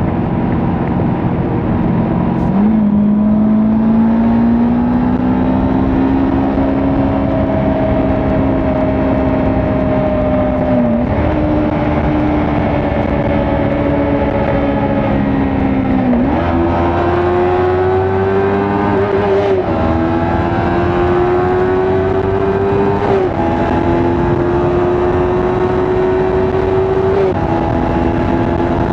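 Kawasaki Ninja 400's parallel-twin engine running at speed, with wind and road noise. Its pitch climbs slowly, with short dips and steps about 11, 16, 20, 23 and 27 seconds in as the throttle changes.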